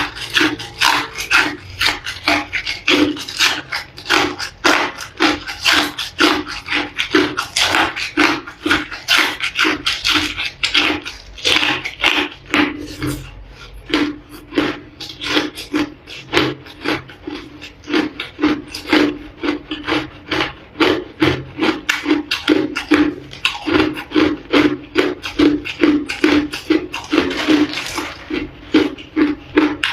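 Ice being bitten and chewed close to the microphone: a rapid, steady run of loud crunches.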